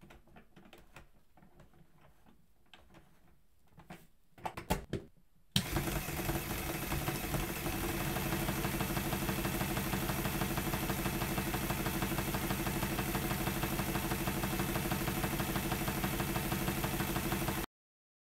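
A few light scattered clicks, then a small motor-driven mechanism starts suddenly about five and a half seconds in. It runs with a fast, even rattle and cuts off abruptly near the end.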